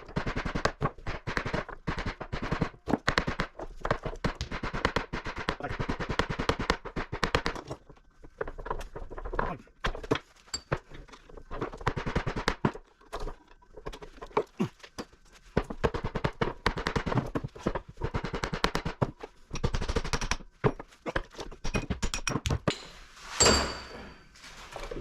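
Rapid, uneven hammer blows on metal, knocking the windings out of a small electric motor's notched stator. One louder blow near the end rings briefly.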